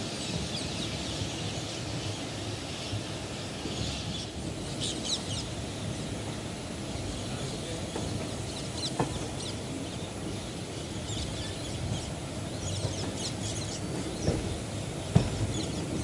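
Passenger train coaches running slowly out of a station, heard from an open coach doorway: a steady low rumble of wheels on the track, with a few sharp clacks of the wheels over the track, the loudest near the end. Short high chirps come and go throughout.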